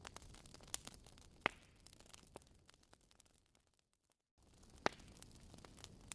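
Fireplace crackling: irregular sharp pops and snaps from burning wood over a faint low hiss. The crackle thins out and drops to a brief total silence a little past halfway, then starts up again.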